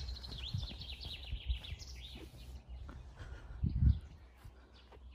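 A songbird singing a quick run of high notes that fall in pitch over about two seconds. About four seconds in there is a short low thump.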